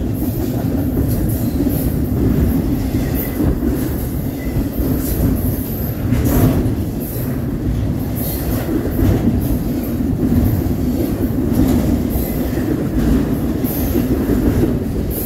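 Union Pacific double-stack container train's well cars rolling past at speed: a steady, loud rumble and rattle, with scattered sharp clacks from the wheels and brief high-pitched wheel squeals.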